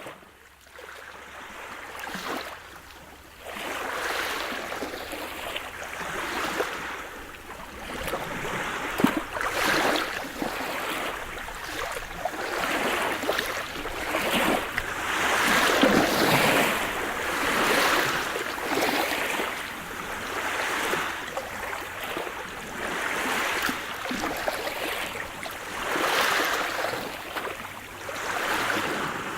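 Sea surf: waves washing in and drawing back in overlapping swells about every two seconds. It is quieter at first and grows fuller about four seconds in.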